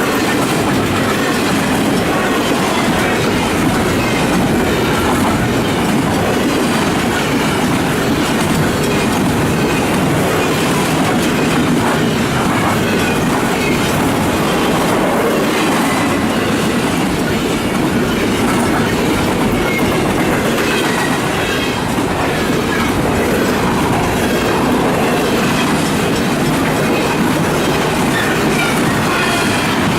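Freight train cars rolling steadily past over a grade crossing: a continuous loud rumble of wheels on rail with clickety-clack over the joints and now and then a thin wheel squeal.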